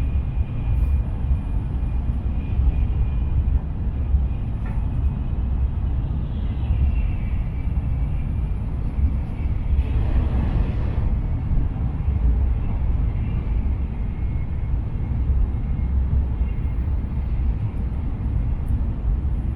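Shinkansen running at speed, heard from inside the passenger cabin: a steady low rumble with a faint high whine over it, and a brief rush of noise about ten seconds in.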